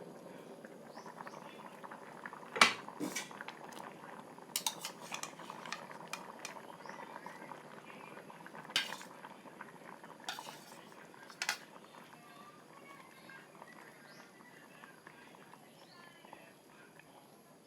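Spoon clinking and scraping against a cooking pot of pumpkin and pork curry, a handful of sharp clinks, the loudest about two and a half seconds in, over a steady low hiss of the curry simmering.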